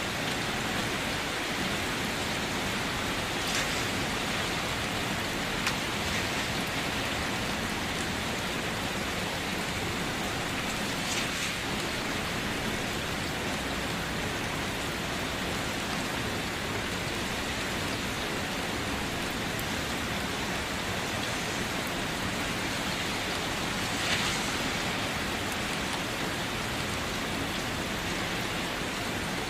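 Steady rain falling, with a few louder individual drops striking a surface now and then.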